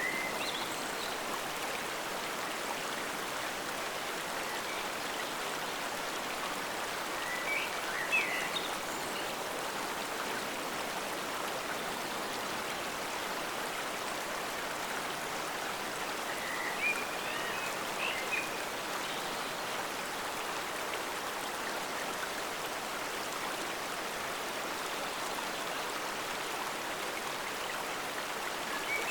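Forest stream flowing steadily, an even rush of water. A few brief high chirps stand out about eight and seventeen seconds in.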